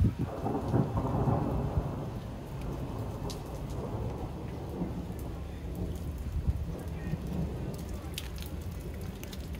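Steady rain falling on garden plants and pavement. A low rumble underneath swells during the first couple of seconds, and a few sharp drip ticks come near the end.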